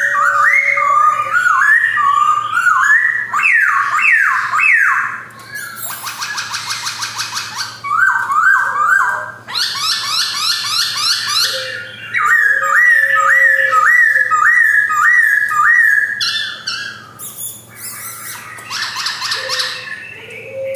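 Male black-throated laughingthrush (white-cheeked Poksay) singing: loud whistled phrases of quickly repeated rising notes, broken three times by fast rattling trills.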